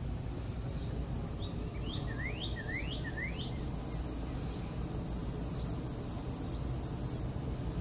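A small bird calling: a quick run of four rising notes about two seconds in, with short high chirps scattered throughout. Under it runs a steady low background rumble and a faint, thin, steady high whine.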